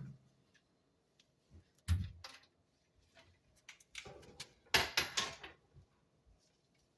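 A few separate knocks and metallic clanks from tools and gas fittings being handled, with a quick run of clatters about five seconds in.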